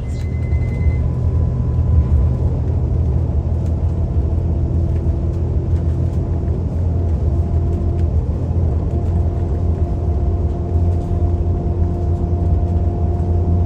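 Steady low rumble of a loaded vehicle driving at a constant speed: engine and road noise with a faint steady hum over it.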